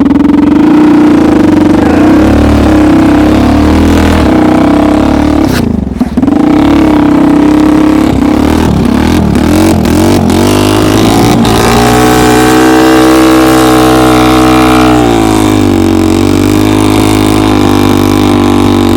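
Homemade snowmobile's engine running loud at high revs, rising and falling in pitch, holding high revs for a few seconds in the second half before dropping back. The machine is bogged down in deep snow, its track digging in instead of driving it forward.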